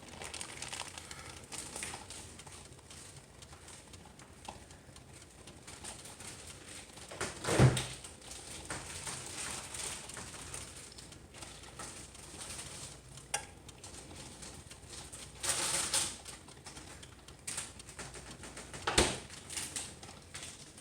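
Drip coffee maker of a 3-in-1 toaster oven brewing: hot water gurgling and sputtering through it. There is a knock about eight seconds in and a short spell of hissing near the end.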